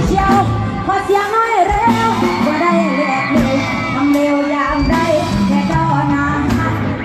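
Live band music with a singer, amplified through a stage PA, with a steady drum beat.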